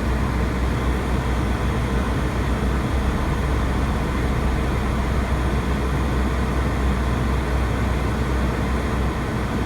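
Steady running noise of an idling car with its air conditioning on: a constant low engine hum under an even rush of air.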